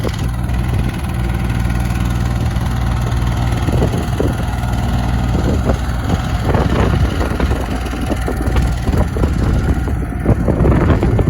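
New Holland TC33D diesel tractor engine idling steadily, with scattered rattling in the second half.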